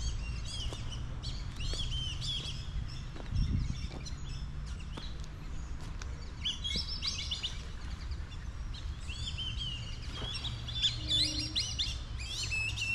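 Several birds chirping and singing, with short quick calls overlapping, busiest about six seconds in and again near the end, over a steady low rumble.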